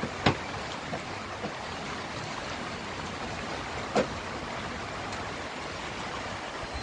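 Steady downpour of rain, an even hiss, with two sharp knocks, one just after the start and one about four seconds in.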